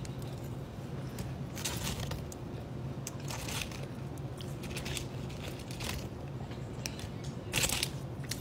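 Close-miked chewing of a mouthful of sub sandwich with lettuce and pickles: soft, wet crunching chews at irregular intervals, the loudest cluster near the end. A low steady hum lies underneath.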